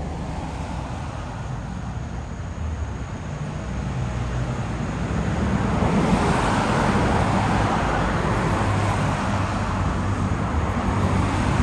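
Road traffic: engine rumble and tyre noise of passing vehicles, growing louder from about halfway through as one passes close.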